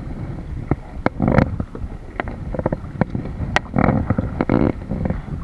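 Kayak on the water: a scatter of sharp knocks and splashes, with wind rumbling on the microphone.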